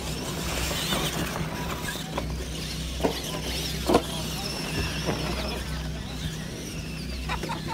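Several radio-controlled monster trucks racing, their electric motors whining up and down in pitch as they throttle, with a few sharp knocks as trucks land or hit the track, the loudest about four seconds in. A steady low hum runs underneath.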